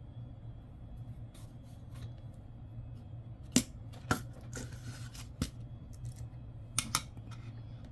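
Nickels being handled and set down on a hard surface: a few sharp clicks, the loudest about halfway through, with a short rustle between them.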